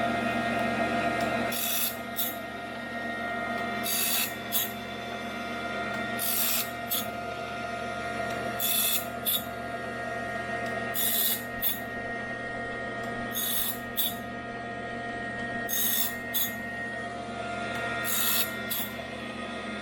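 Cook's Cat Claw automatic band saw blade sharpener running: a steady motor hum with a pair of short grinding sounds repeating about every two and a half seconds as it works its way along the blade's teeth. The grinding pairs start about a second and a half in.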